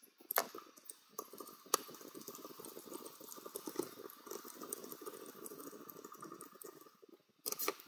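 Hands working greased gearbox actuator parts: a couple of sharp clicks, then several seconds of steady fine crackling and rubbing.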